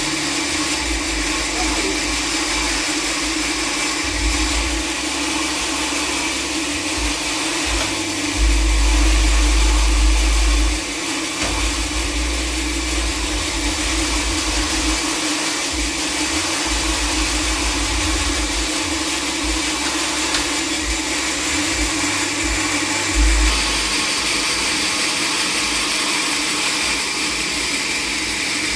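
Sawmill machinery running steadily with a constant hum, and a deeper rumble that comes and goes, loudest for about two seconds near the middle.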